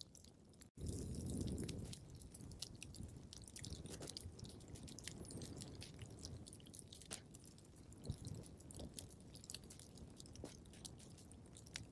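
Wood fire crackling in a fireplace: irregular pops and snaps over a low rumble of flames. The sound cuts out for an instant under a second in.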